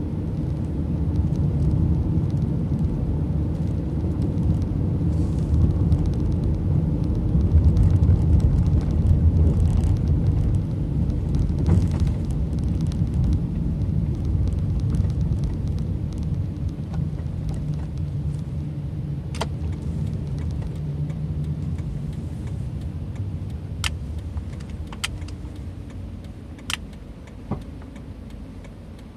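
Road and engine noise of a moving car heard from inside the cabin: a steady low rumble, loudest about a third of the way in and growing quieter toward the end. A few sharp clicks come in the last third.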